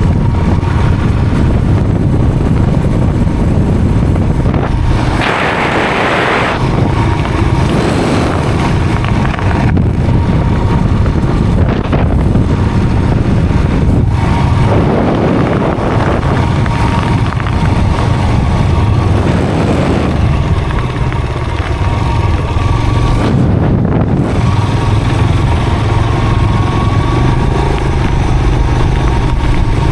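A motor vehicle's engine running steadily on the move, with a few brief louder rushes of noise, about five, fifteen and twenty seconds in.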